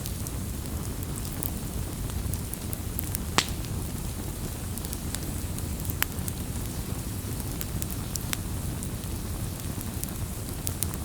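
Campfire burning with a steady low rumble and a scatter of small crackles, with a few sharper pops, the loudest about three and a half seconds in.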